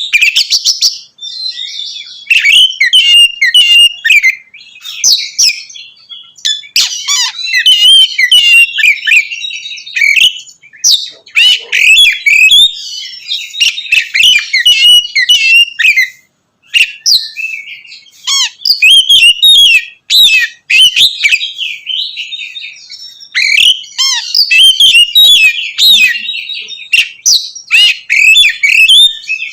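Oriental magpie-robin singing a loud, fast, varied song of rapid whistles and chattering notes, in phrases broken by short pauses: the full 'ngeplong' song used to provoke rival magpie-robins.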